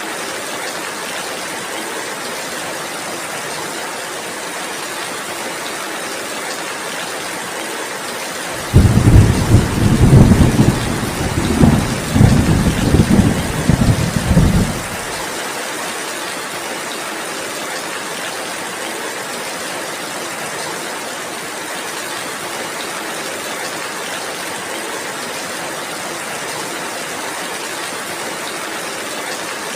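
Steady heavy rain. About nine seconds in, thunder breaks in suddenly, much louder than the rain, and rumbles in several swells for about six seconds before dying away.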